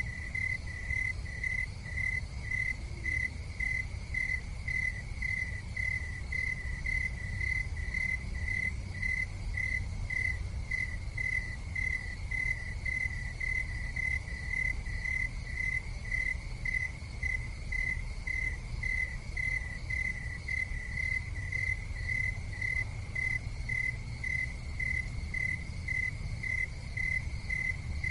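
A cricket chirping steadily, a high pulsing note repeated about two to three times a second, over a low steady rumble.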